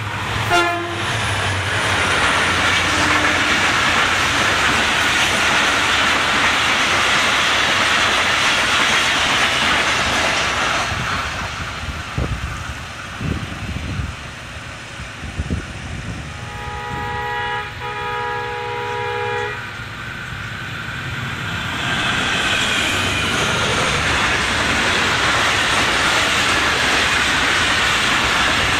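Passenger train running on the rails, a loud steady rumble of wheels and carriages. About halfway through the noise drops, and a multi-tone train horn sounds twice in quick succession. Then the running noise rises again.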